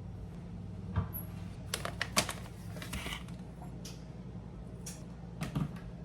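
Scattered sharp clicks and knocks of kitchen things being handled and set down on a counter while a latte is put together, over a steady low hum.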